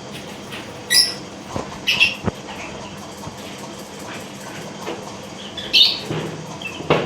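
Caged lovebirds giving short, high chirps: one about a second in, another at two seconds and a louder one near six seconds. A couple of light knocks come in between.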